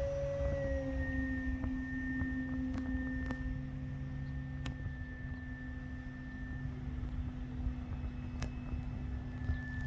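Electric motor and propeller of a large RC Carbon Z Cessna in flight: a steady droning whine whose pitch dips slightly about a second in and then holds, over wind rumble on the microphone.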